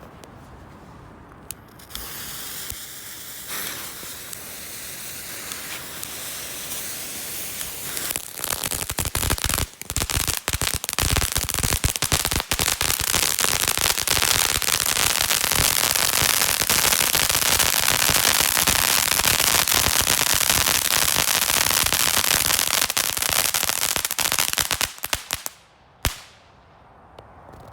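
WECO crackling volcano, a small ground fountain firework, burning: it starts with a hiss, builds into dense, loud crackling about eight seconds in, and then stops fairly suddenly, with one last pop just after.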